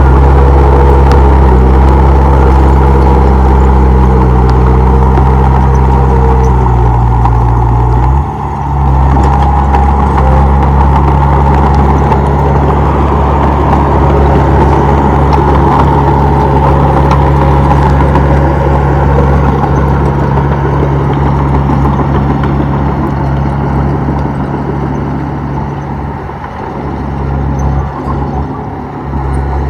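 Komatsu D31P bulldozer's diesel engine running loud and steady. Its note dips sharply and shifts about eight seconds in, and it sags unevenly near the end.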